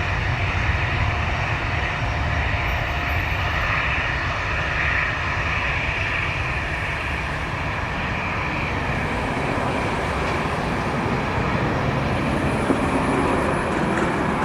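A jet airliner's engines running, a steady rumble with a hiss above it.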